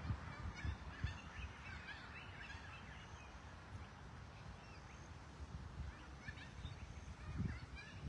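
Birds calling in clusters of short chirps, over a low rumble on the microphone.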